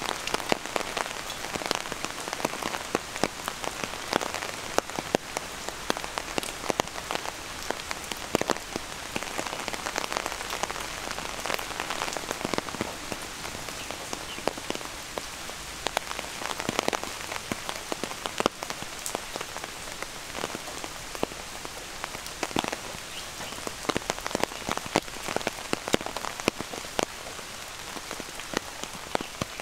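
Steady rain, with many sharp drips and taps of drops landing close by, scattered irregularly throughout.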